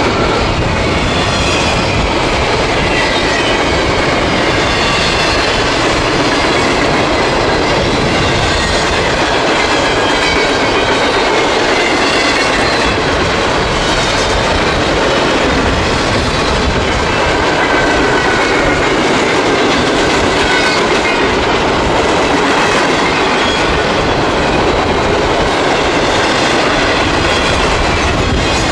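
Double-stack container freight train rolling past close by: a steady rumble and clatter of wheels over the rails, with a thin wavering squeal from the wheels riding above it.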